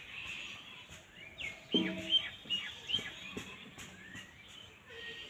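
Birds chirping outdoors: a quick run of short, falling chirps in the middle of the stretch, over a faint steady background of countryside noise. A brief low call sounds with them about two seconds in, the loudest moment.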